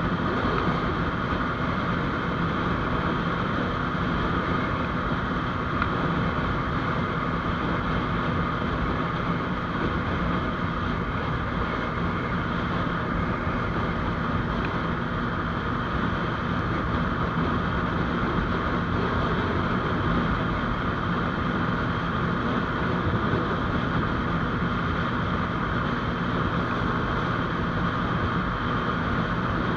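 GPX Demon GR200R motorcycle cruising at a steady speed, its engine running evenly under wind rush on the microphone.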